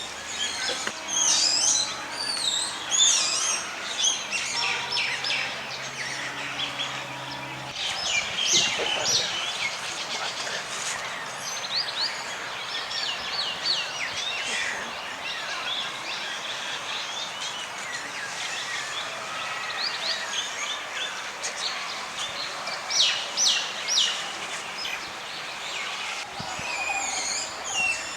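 Birds chirping and calling, many short repeated notes over a steady hiss of background noise, with a low hum that stops about eight seconds in.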